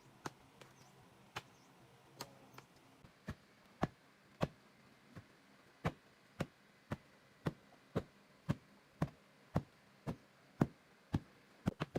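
Repeated sharp knocks of a tool striking, sparse and irregular at first, then settling into a steady rhythm of about two strikes a second.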